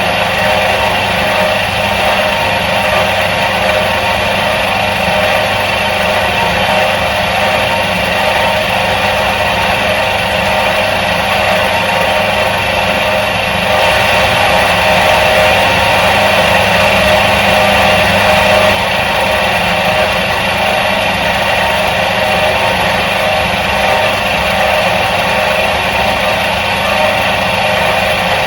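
Electric motor of a 1977 Soviet washing machine running steadily with a constant hum. About halfway through it grows a little louder for some five seconds, then settles back.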